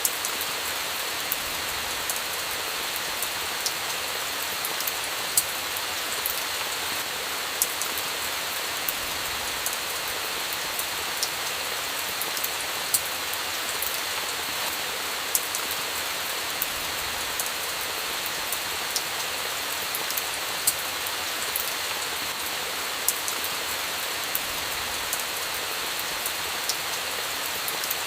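Steady rain hiss with irregular sharp pops and crackles of a campfire scattered through it.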